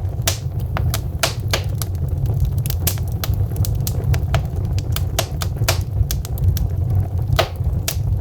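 Wood logs burning in a fireplace, crackling with irregular sharp pops and snaps, several a second, over a steady low rumble of the flames.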